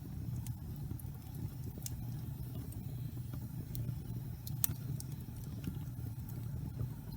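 Wood logs burning in a fireplace: a steady low rumble of the flames with scattered sharp crackles and pops, the loudest pop a little past halfway.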